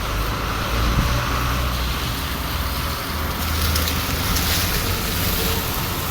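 Steady road-vehicle and traffic noise: a continuous low rumble with an even hiss over it.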